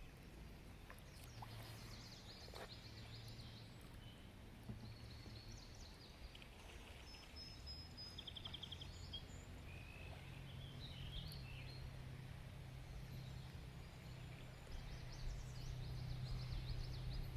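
Several small songbirds singing, a mix of short high chirps and quick trills. Under them runs a low steady hum that sets in about a second in and gets louder in the second half.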